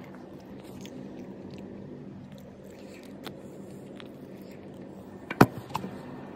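A person chewing a mouthful of mutton biryani eaten by hand, with soft mouth clicks, over a steady low hum. A sharp knock about five seconds in, followed by a smaller one, is the loudest sound.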